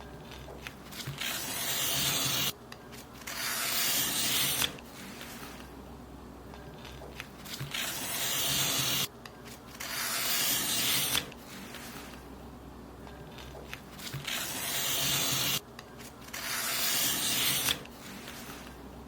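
Paper being cut in long strokes, each a rustling hiss of about two seconds that swells as it goes. The strokes come in pairs, three pairs in all, with short pauses between them.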